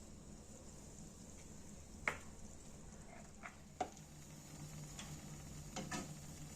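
Kitchen utensil handling: a few light clicks and taps, spaced a second or more apart, over a faint steady hum that sets in about halfway.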